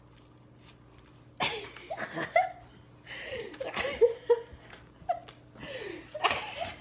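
A woman laughing in breathy bursts and giggles, starting about a second and a half in after a quiet moment.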